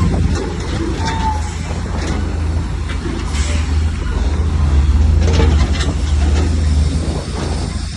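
Heavy diesel engine of earthmoving machinery running with a deep low rumble, louder around five to seven seconds in, with scattered metallic clanks and a brief squeal about a second in.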